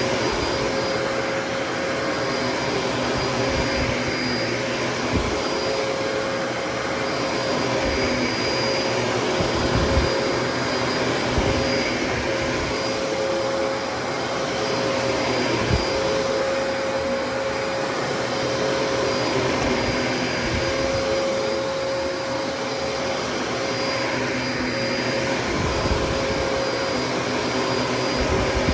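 Dyson DC33 upright vacuum cleaner running steadily: an even rush of air with a steady whine over it, and occasional short low knocks.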